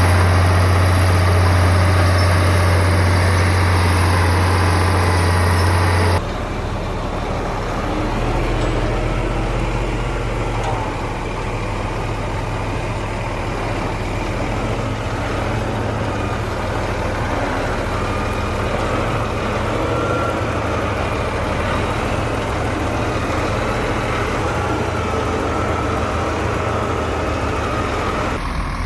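Heavy earthmoving machine's diesel engine running steadily with a deep hum. About six seconds in the sound cuts abruptly to a quieter, duller engine sound.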